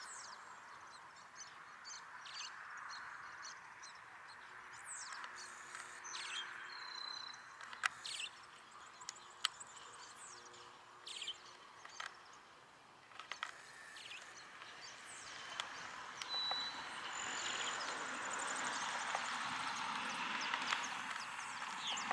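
Wild birds chirping with short, quick descending notes, with a few sharp clicks, over a faint outdoor hiss that grows louder over the last few seconds.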